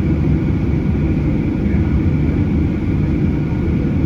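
Cabin noise of a Boeing 737-800 with its CFM56 jet engines running: a steady, loud, deep drone with a faint steady whine higher up, unchanging throughout.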